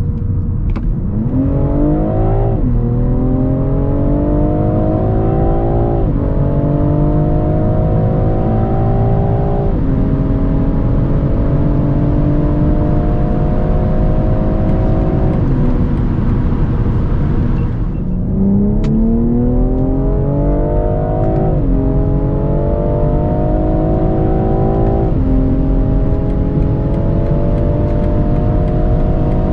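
A tuned BMW M340i's 3.0-litre turbocharged straight-six pulling hard at full throttle, its pitch climbing and then dropping sharply at each quick upshift of the eight-speed automatic: three upshifts, then the engine falls off for a couple of seconds past the middle, and a second pull with two more upshifts is still rising at the end.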